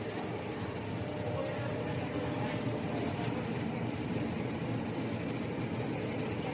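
Electric commuter train running, heard from inside the carriage as it pulls out of a station: a steady low rumble of motors and wheels on the rails that grows a little louder about a second and a half in.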